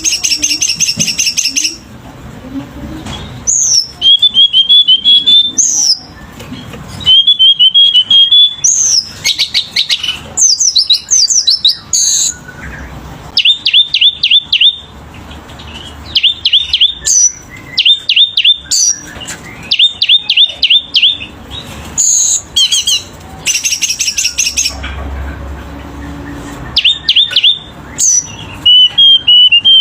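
Selendang biru songbird singing busily and loud: short bursts of rapid repeated high notes and sharp down-slurred whistles, one phrase after another with brief pauses. The song is packed with varied 'isian' phrases.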